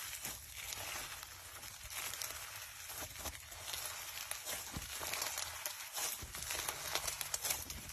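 Slime being squished and stretched by hand, with a steady stream of small, irregular crackling pops.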